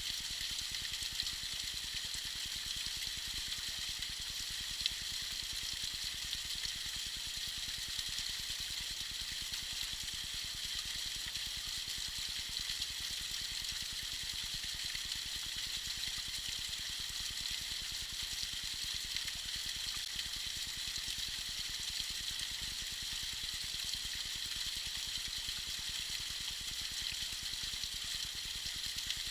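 A tiny waterfall splashing and trickling over icy rocks: a steady, even, high-pitched hiss of falling water, with a faint tick now and then.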